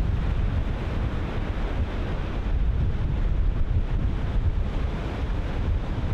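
Ocean surf breaking and washing in a steady roar, with wind buffeting the microphone as a low rumble.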